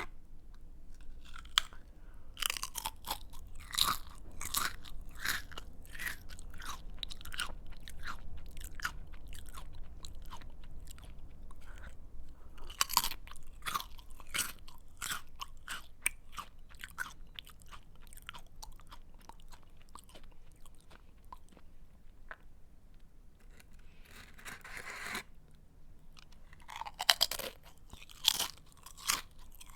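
A person chewing a crunchy snack close to the microphone: a rapid run of sharp, crisp crunches that thins out midway, then a louder cluster of bites near the end.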